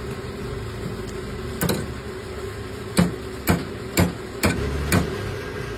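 Hand tool knocking on metal: six sharp knocks, irregularly spaced, over a steady background hum.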